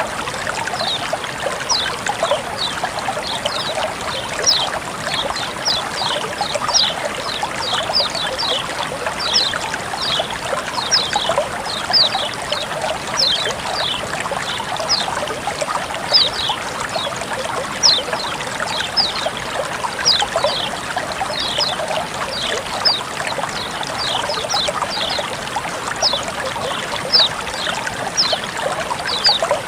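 Flowing water trickling and splashing steadily, with many short, bright, high plinks, about two a second, over the running water.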